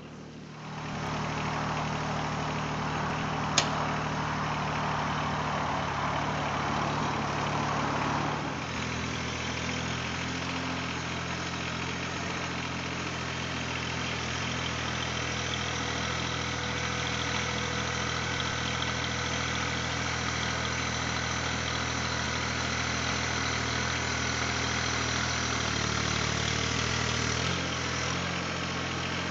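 Mahindra eMax 20S HST compact tractor's diesel engine running steadily at raised revs while the front bucket digs. It picks up about a second in, with a rushing noise over it for the first eight seconds or so and a sharp click a few seconds in, then settles to steady running.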